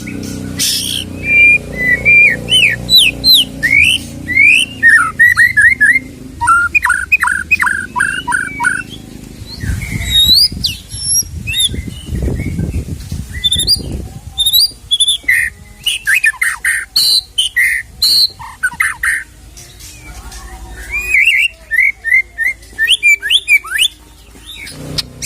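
White-rumped shama (murai batu) singing a long, varied song: loud whistles, chatter and fast runs of short repeated notes, the mixed 'isian' phrases the bird takes from other species. A low rumble sounds under the song near the middle.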